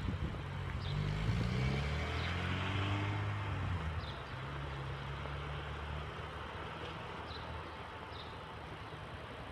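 1981 Lancia Beta Zagato's twin-cam four-cylinder engine accelerating away, rising in pitch for the first few seconds, then running steadier and fading as the car drives off down the street.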